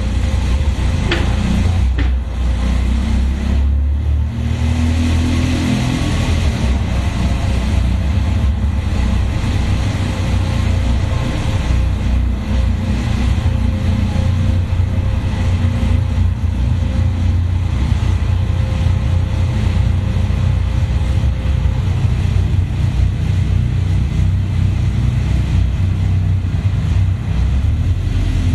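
Caterham sports car engine running at low speed with a loud, deep exhaust note, heard from the open cockpit, the throttle rising and falling a little as it creeps along inside an underground car park.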